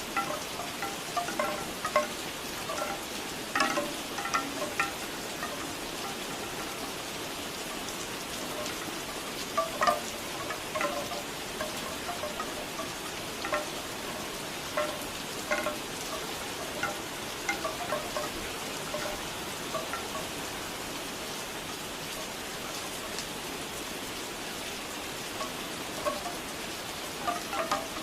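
Bamboo wind chimes knocking together in irregular clusters over steady rain. The chimes fall mostly quiet for several seconds past the middle, then knock again near the end.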